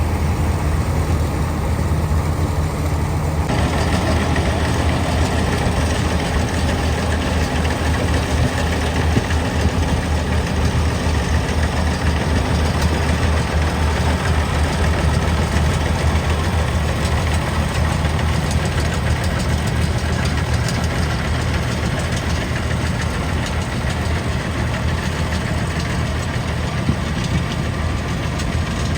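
Harvester's diesel engine running steadily with a low, even hum. About three and a half seconds in, a brighter, noisier mechanical layer comes in on top and holds.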